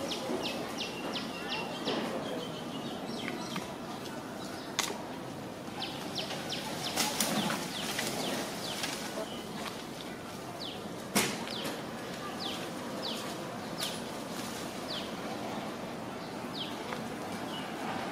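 A bird calling: runs of short, high chirps that each fall in pitch, four to six in quick succession near the start and again around seven seconds, then spaced out singly. A few sharp clicks stand out against a steady outdoor hiss.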